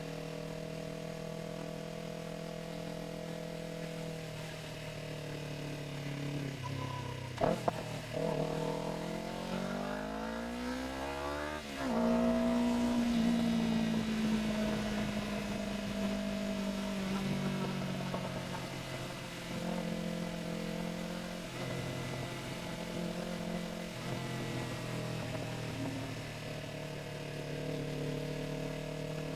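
Yamaha R3's parallel-twin engine running steadily. About seven seconds in come two sharp clicks; then the revs climb steeply for about four seconds, drop suddenly at a shift about twelve seconds in, and the engine runs on at a steady, gently varying pace.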